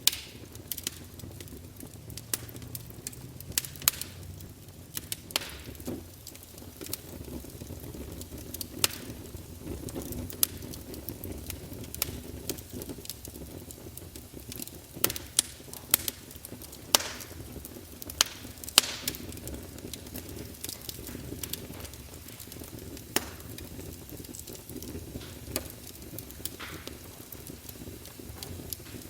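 Wood fire burning in a fireplace: a steady low rush of flames with frequent sharp, irregular crackles and pops from the logs, a run of louder pops about halfway through.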